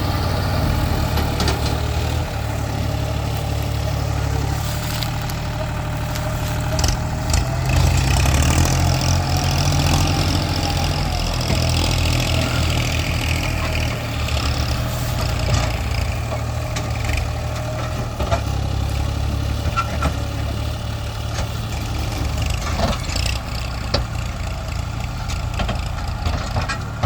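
Tractor diesel engine running steadily, a little louder for a few seconds around eight to eleven seconds in.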